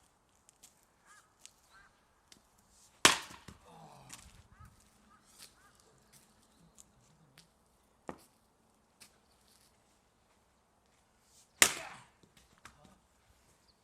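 Fiskars axe chopping firewood: two heavy strikes into the wood about eight seconds apart, with a lighter knock between them.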